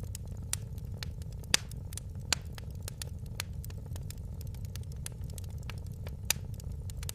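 Fire crackling in a fireplace: a steady low rumble with frequent sharp pops, the loudest about one and a half seconds in.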